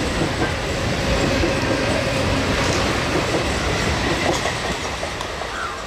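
Mumbai suburban electric multiple unit (local train) running past close by, its wheels clattering over the rail joints with a steady rumble. The noise eases slightly near the end as the coaches move away.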